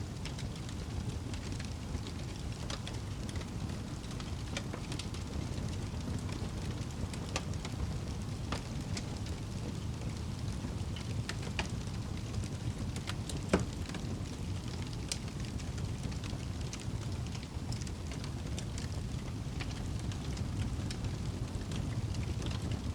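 Wood fire burning in a fireplace: a steady low rumble with scattered crackles, and one louder pop a little past the middle.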